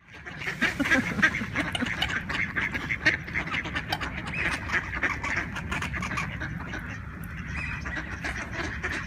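A flock of ducks quacking and honking all at once, a dense unbroken clamour of overlapping calls.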